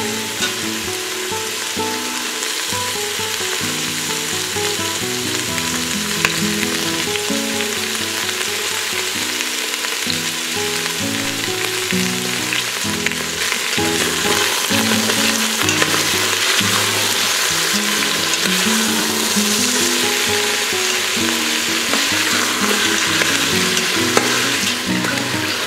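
Cubed potatoes and carrots sizzling in hot oil in an Instant Pot's stainless steel inner pot, stirred with a metal spoon that scrapes and clinks against the pot. Light background music with a simple melody plays underneath.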